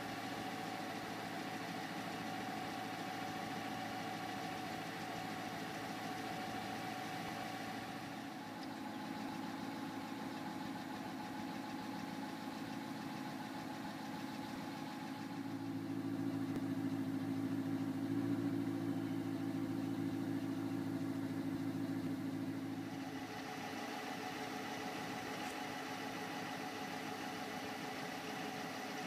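2013 Dodge Charger Pursuit police car engine idling steadily, louder and deeper for several seconds in the middle as the sound shifts around the car.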